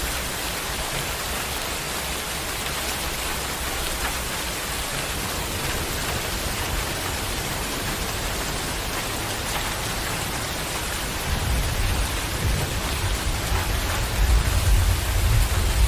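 Heavy rain pouring steadily, with a low rumble that builds up over the last few seconds.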